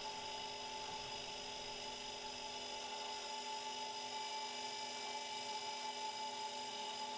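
Milling machine spindle running steadily with a constant whine while a 5 mm drill bores a cross hole through a small pulley.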